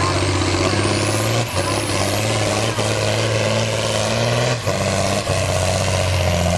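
Engine of a pulling vehicle running hard under load as it drags the weight sled down the track. The pitch steps and the sound dips briefly a few times: about a second and a half in, and again around four and a half and five seconds in.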